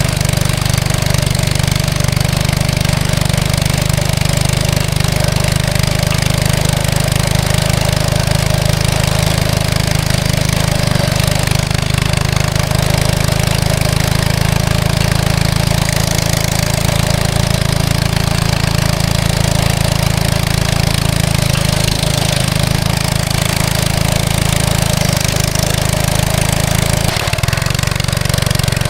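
Small single-cylinder mini bike engine running steadily at a fairly even speed. The bike is a worn machine fitted with the wrong carburetor.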